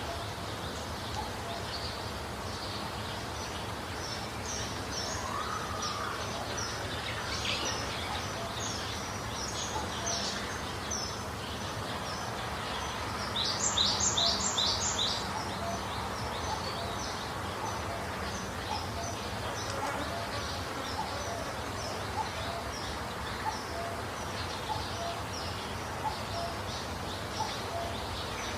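Songbirds chirping repeatedly over a steady low background noise. About halfway through, a nearer bird gives a louder run of about five quick, falling notes.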